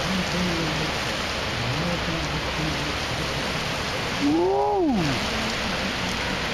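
Heavy downpour of rain, a steady hiss. About four seconds in, one short pitched call rises and then falls over it, from a voice or an animal.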